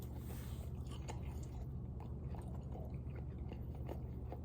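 A person biting into and chewing battered, fried cheese curds: faint, soft mouth sounds and small clicks over a steady low hum. The curds are not very crispy.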